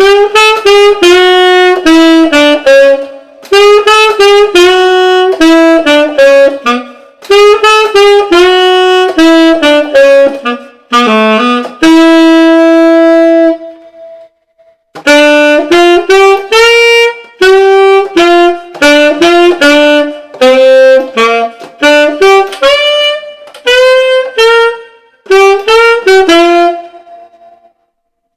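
P. Mauriat tenor saxophone playing an unaccompanied jazz phrase of short, separately tongued notes in four runs, with one long held note about twelve seconds in. It is an articulation demonstration.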